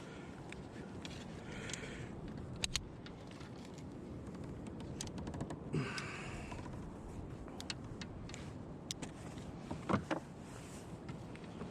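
Steady wind and water noise on a kayak, with a few irregular sharp clicks and knocks and two brief swishes.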